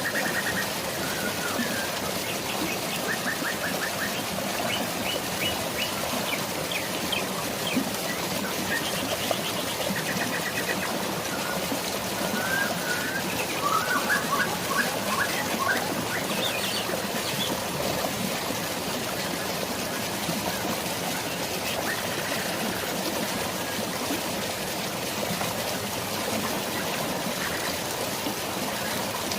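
Steady rush of a waterfall and drizzling rain, with forest birds chirping and trilling over it, several short calls in the first half and fewer later.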